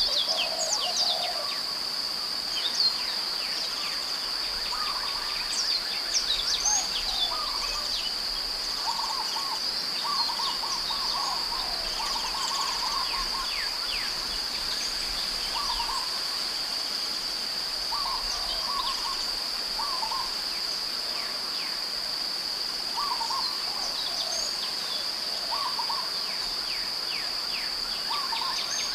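Outdoor birdsong: many birds chirping in short, quick falling notes, with lower brief calls mixed in, over a steady unbroken high-pitched insect drone.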